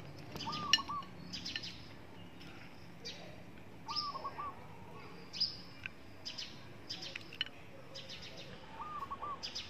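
Birds calling: one repeats a short phrase of a few looping notes three times, among frequent higher chirps. A few sharp clicks stand out, the loudest about a second in.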